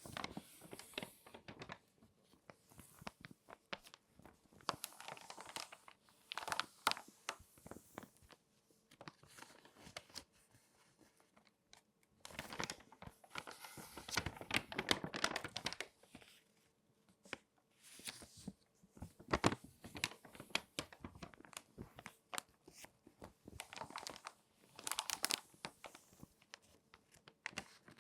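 Glossy magazine pages being folded and crinkled by hand, in irregular bursts of sharp crackling and rustling with short pauses between them. The longest, densest crinkling comes about halfway through.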